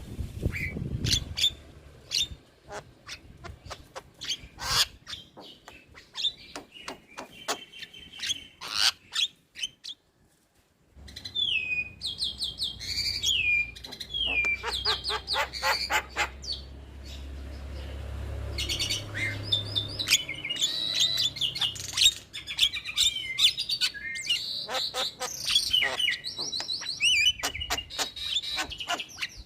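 Javan myna (jalak kebo) song: a varied run of sharp clicks, chattering notes and whistled notes gliding up and down, broken by a short silence about ten seconds in.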